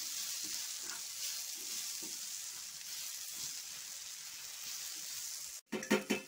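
Onions, tomato and ground spices frying in a nonstick pan with a steady sizzle, a steel spoon stirring and scraping through the mixture in repeated strokes. A couple of louder knocks sound near the end.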